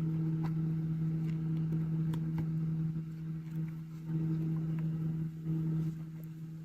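Steady low hum of a running machine, such as a fan or motor, holding one pitch. A few faint light ticks sound over it.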